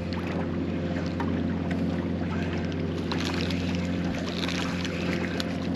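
Steady low hum of a boat motor running at an even, unchanging pitch, with a few faint ticks and splashes over it.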